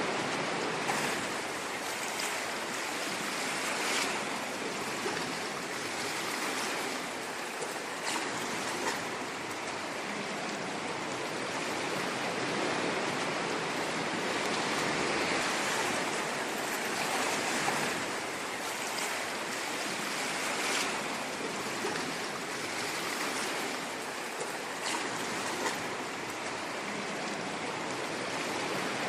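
Ocean waves washing on a shore: a steady rushing surge that swells and eases slowly, with faint crackles of breaking water.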